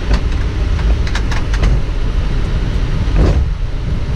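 Steady low rumble inside a Boeing 777 cockpit as the airliner taxis on the ground. A few light clicks come in the first two seconds, and a short thump follows about three seconds in.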